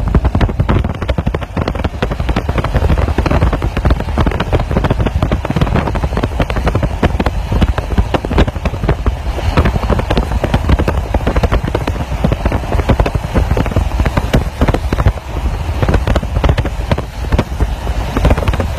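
Wind rushing in through an open car window and buffeting the microphone, over the low rumble of the moving car, unbroken and uneven throughout.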